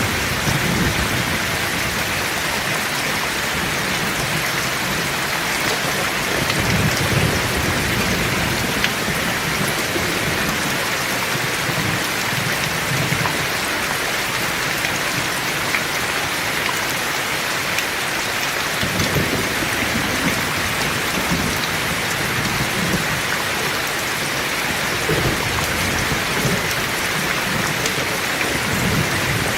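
Heavy rain falling steadily, with low rolls of distant thunder rumbling up several times, around 7 s, 19 s and near the end.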